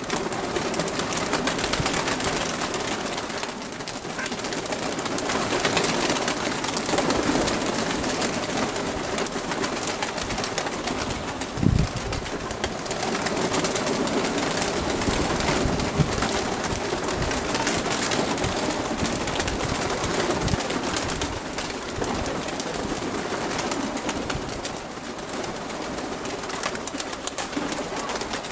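Nikolaev pigeons cooing over a steady rushing noise of gusty wind, with a single low thump about twelve seconds in.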